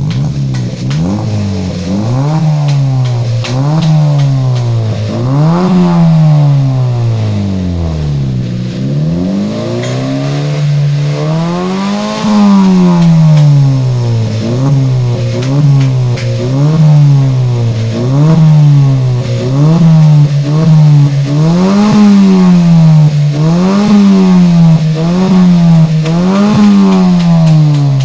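Honda Brio's four-cylinder petrol engine revved repeatedly through a modified exhaust with the stock resonator and rear muffler replaced by straight pipe and an aftermarket muffler. The pitch rises and falls with each blip: a few blips, a longer, higher rev about halfway through, then quick blips about once a second.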